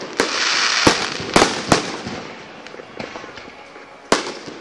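Aerial fireworks shells bursting: five sharp bangs, four in the first two seconds and one about four seconds in, over a hiss that fades away after about two seconds.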